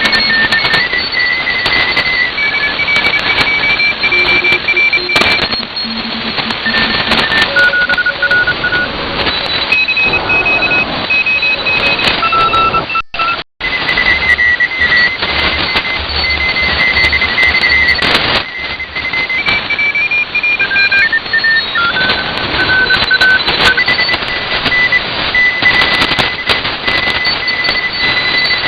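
Shortwave radio static heard through a WebSDR receiver, with several Morse code (CW) signals beeping at different pitches, keyed on and off and taking turns. The audio drops out briefly about halfway through.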